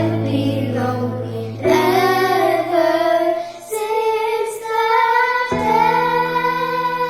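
Young girls' singing group singing a slow melody over sustained accompaniment chords.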